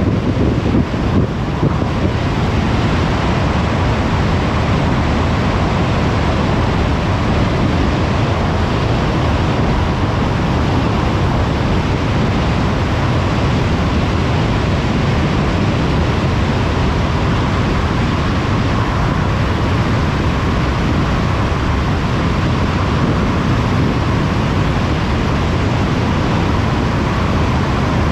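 Steady tyre and wind noise of a car travelling at motorway speed, with a faint steady tone running through it.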